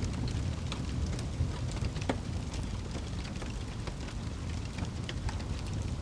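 Wood fire burning in a fireplace: a steady low rumble of the flames with irregular crackles and small pops, one sharper pop about two seconds in.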